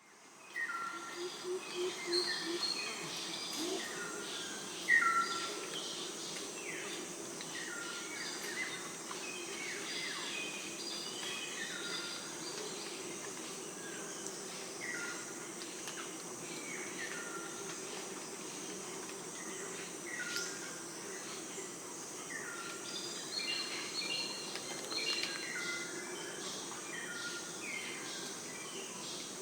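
Natural ambience of several birds calling: short, falling chirps repeated in clusters, over a steady faint background hiss.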